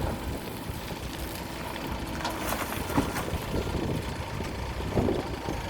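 Backhoe loader's diesel engine running steadily, with two sharp knocks about three and five seconds in.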